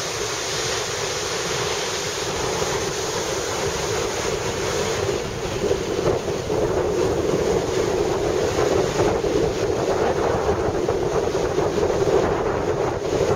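Heavy surf breaking on a sandy beach, the high waves raised by a distant typhoon, with strong wind buffeting the microphone. The wind grows gustier about a third of the way in.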